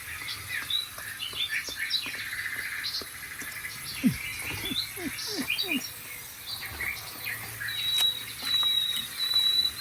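Recorded birdsong played from a TV: many birds chirping and trilling over each other, with a run of low falling notes around the middle and a long, steady high whistle near the end.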